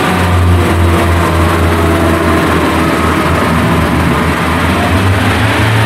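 Diesel engines of a Class 142 Pacer diesel multiple unit running steadily, a loud low throbbing hum with the unit standing or moving off.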